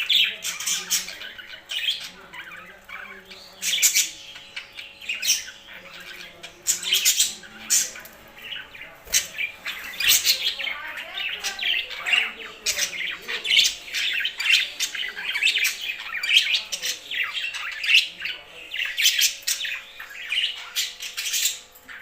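Several pet birds chirping and squawking together in quick, overlapping calls, growing busier in the second half.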